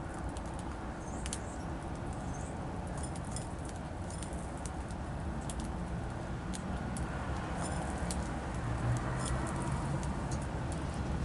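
Small songbirds at a seed feeder: scattered short high chirps and sharp little ticks, over a steady low rumble that grows slightly louder near the end.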